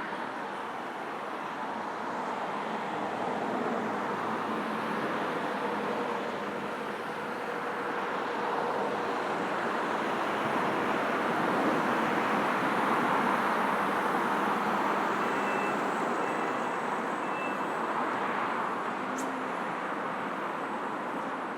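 Steady traffic on a busy city main road, a continuous wash of passing cars and engines that swells gradually toward the middle and eases off again.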